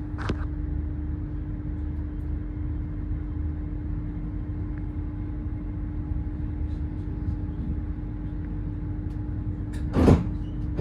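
Inside the passenger cabin of a Great Western Railway Class 800 IET train on the move: a steady low rumble with a steady hum. A single short, loud knock comes about ten seconds in.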